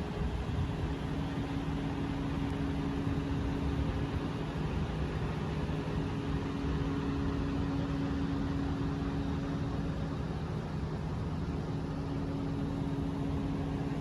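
Diesel semi truck engine idling: a steady, even drone with a constant low hum.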